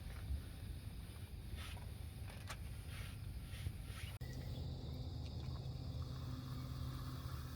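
Low rumble of strong wind buffeting the microphone, with a few faint ticks or rustles. After an abrupt cut about halfway through, a steady low hum runs under the wind.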